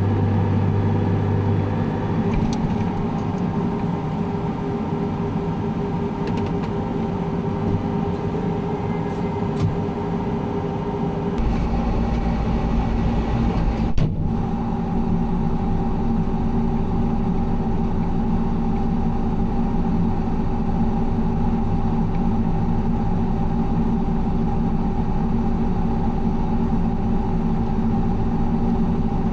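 Combine harvester running steadily while harvesting corn, a constant engine and machinery drone. The low hum shifts pitch about eleven seconds in, and a single sharp knock comes a few seconds later.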